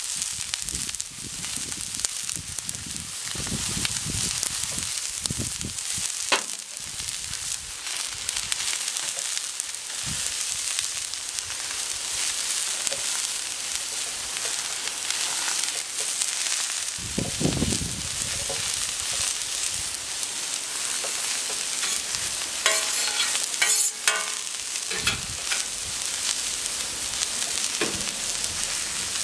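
Burger patties and onions sizzling steadily on a hot steel gas plancha plate, with a few short knocks and a brief clatter about 23 seconds in.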